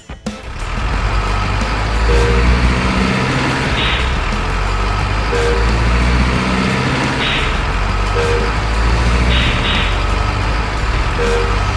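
Truck engine running steadily, with a short low beep that repeats about every three seconds and a few brief hissing bursts.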